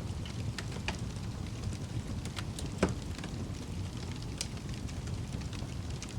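Wood fire burning in a fireplace: a steady low rumble of the flames with scattered sharp crackles and pops of the burning wood, the loudest pop a little under three seconds in.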